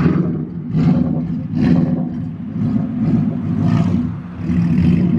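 Car engine revved hard over and over, rising and falling, with several sharp peaks.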